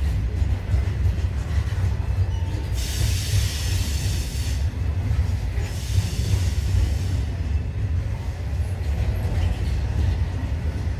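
Freight train hopper wagons rolling past with a steady low rumble, joined by two short spells of high hiss about three and six seconds in.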